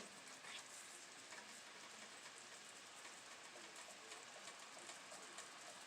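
Faint, even sizzle of a banana sauce simmering in a pan, with scattered small crackles.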